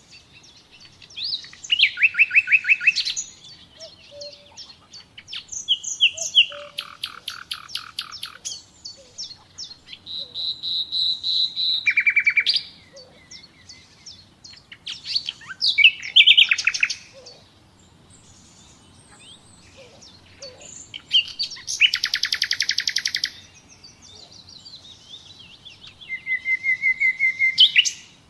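Common nightingale singing: a string of separate phrases, each a second or two long with short pauses between, made of rapid repeated notes and trills, and one drawn-out clear whistle partway through.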